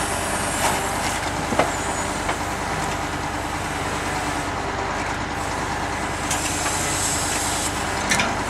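KAMAZ timber truck's diesel engine running steadily while the truck is being loaded with logs, with a few sharp knocks and clanks scattered through.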